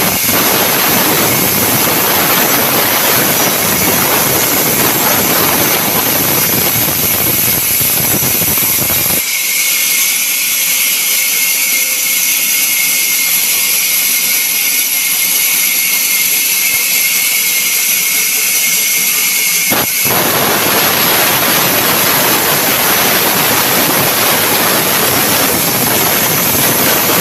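Sawmill saw cutting timber from a log: a loud, steady machine noise with a high whine. About nine seconds in, the heavy lower part of the noise drops away as the cut eases off, and it comes back about twenty seconds in as the saw bites into the wood again.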